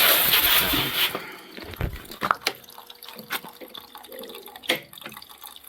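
Water rushing into an automatic chicken plucker's drum, cutting off about a second in, followed by scattered light clicks and knocks.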